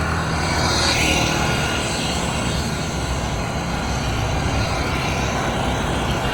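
Steady street traffic, motor vehicle engines running, with a brief rise in hiss about a second in.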